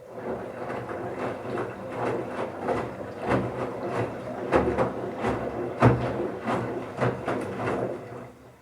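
Bauknecht Super Eco 7615 washing machine drum turning during the wash, wet towels tumbling inside with irregular thuds and splashes over the motor's hum. It runs for about eight seconds, then stops.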